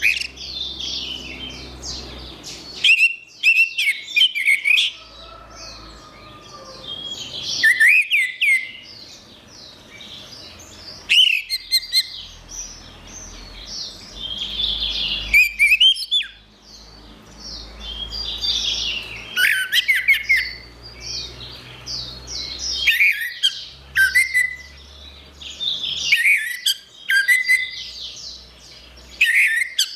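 Orange-headed thrush singing: bursts of rapid, varied high warbling phrases about every three to four seconds, with short pauses between.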